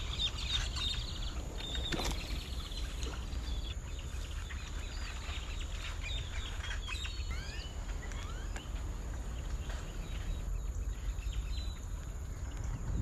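Birds calling in short chirps, with a quick run of rising whistled notes about halfway through, over a steady high whine and a constant low rumble.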